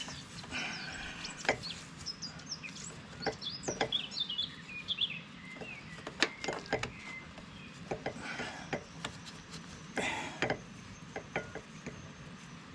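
Scattered clicks and knocks of hydraulic hoses and their metal fittings being handled and worked into place, with small birds chirping for a couple of seconds around the middle.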